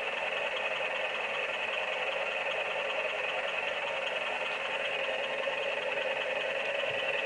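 Steady, unbroken mechanical hum from a 1993 Tonka Fire Rescue Engine 5 toy fire truck, holding an even level.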